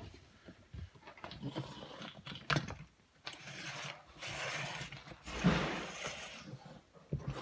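Lego pneumatic inline two-cylinder engine running on compressed air: irregular plastic clicking and clacking from its pistons and valves, with a stretch of air hissing through the middle and a louder knock about five and a half seconds in.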